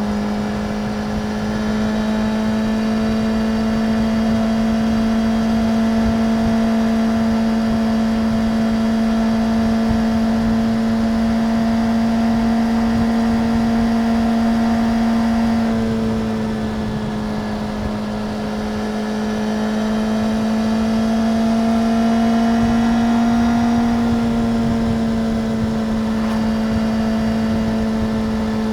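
Suzuki GSX-R750's inline-four engine holding steady, fairly high revs. The pitch creeps up slowly, drops a little about halfway through, climbs again and eases back down near the end.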